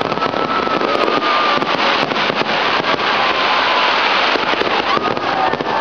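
Fireworks display crackling densely: a steady, loud stream of many small pops and crackles with no let-up.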